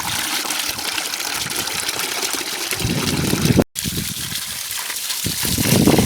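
Water running and splashing in a steady hiss, cut off for an instant just past halfway, then heavier splashing near the end.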